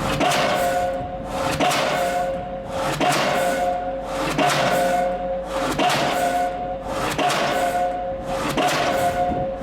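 Diesel pile driver hammering a steel H-pile, a heavy blow about every second and a half, each blow leaving the steel ringing.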